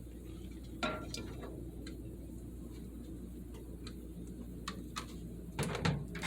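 Light scattered clicks and knocks from a bowl of eggs in water being set into a microwave oven and the oven being handled, with a louder cluster of knocks near the end, over a steady low hum.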